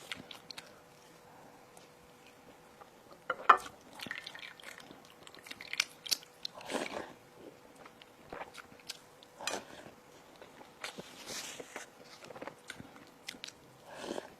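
Close-miked eating: a person biting into crisp baked food and chewing it, with scattered crunches. The sharpest bite comes about three and a half seconds in.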